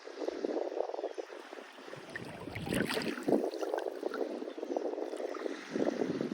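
Lake water lapping and splashing close by, in uneven surges, with a few sharper splashes or drips about two to three seconds in.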